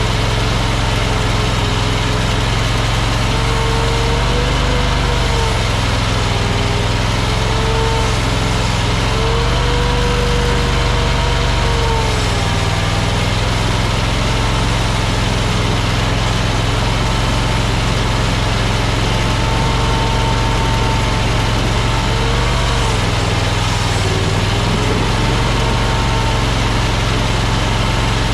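Small engine of a mini track loader running steadily, with a whine that slowly rises and falls in pitch over the steady engine drone.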